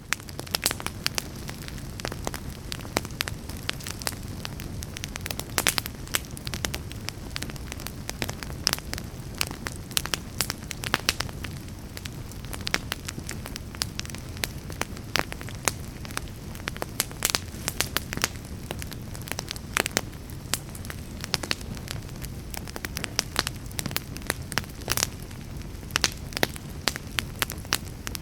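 Fire burning in a fireplace, a steady low rumble of flames with frequent irregular crackles and sharp pops.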